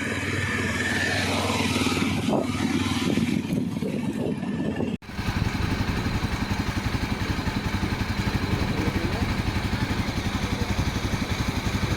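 Motorcycle engine running, likely the Yezdi Adventure's single-cylinder. About five seconds in the sound breaks off abruptly and resumes as a steady, fast pulsing.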